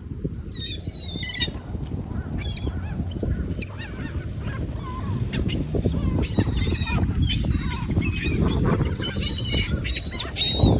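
A flock of seagulls calling over food, many short, high squawks overlapping, over a steady low rumble.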